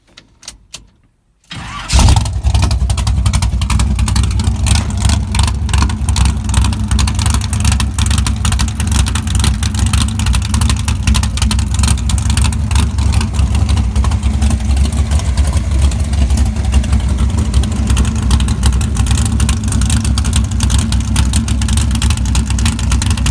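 A few clicks, then the 1984 GMC truck's 496 big-block V8 cranks and fires about two seconds in. It then idles loud and uneven through open fender-well exit headers with no mufflers.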